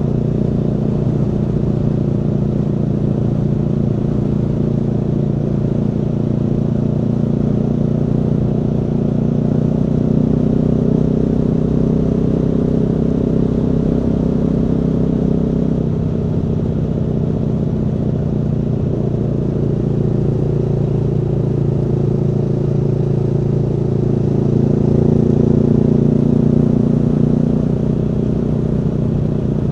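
Aprilia Tuono V4's V4 engine running under way at a steady pace, its pitch shifting about halfway through and swelling louder near the end.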